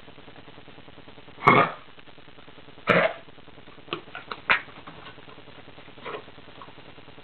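Dog with kennel cough coughing in harsh, hacking fits: two loud coughs about a second and a half apart, then a quick run of short hacks and one fainter cough near the end.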